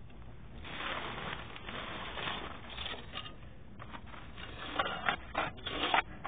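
A man sniffling repeatedly through a runny nose from allergies, with several short, sharp sniffs near the end.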